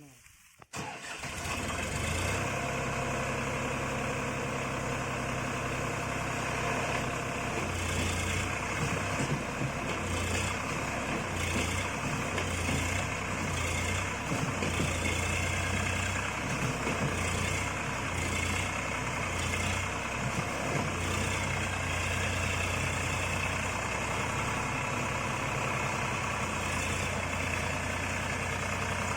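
Tractor diesel engine running steadily with a deep, unevenly pulsing hum, coming in abruptly about a second in.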